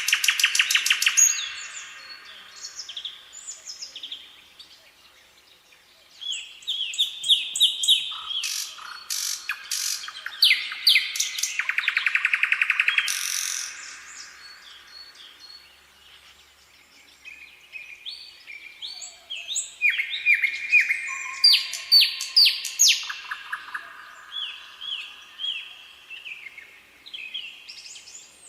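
Songbirds singing, with rapid trills and runs of quick chirps in three long bouts separated by brief lulls.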